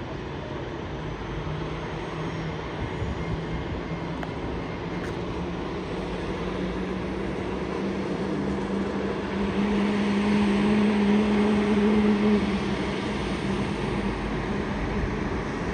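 Jet airliner engines running as the aircraft moves near the airfield. The rushing noise carries a low hum that rises slightly in pitch and grows louder, peaking about ten to twelve seconds in before easing off.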